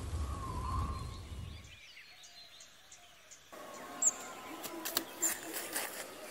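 Rain and a low rumble fade out over the first two seconds. Birds then chirp over quiet rural ambience, which steps up suddenly about three and a half seconds in, with sharper calls and chirps after that.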